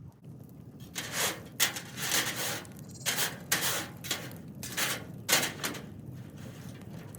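Dry brush and yard debris rustling and scraping as it is handled, in about six short bursts.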